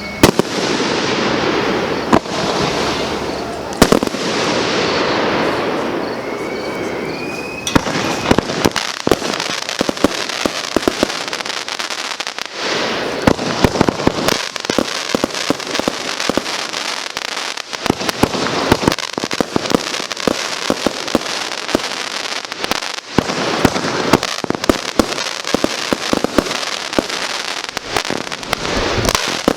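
Consumer (Class C) fireworks going off: a few separate sharp booms over a noisy wash, then from about eight seconds in a dense run of rapid crackling pops that keeps going.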